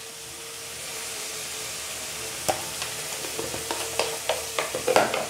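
Ground masala paste frying in oil in a metal kadai, a steady sizzle, with a metal spatula clicking and scraping against the pan from about halfway on as the paste is stirred.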